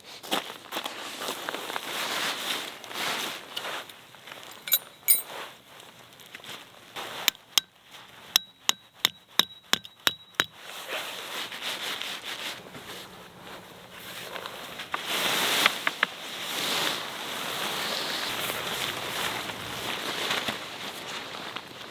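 A quick run of about ten sharp hammer strikes, roughly three a second, in the middle, with a couple of ringing metallic clinks shortly before. Rustling and the handling of gear fill the rest.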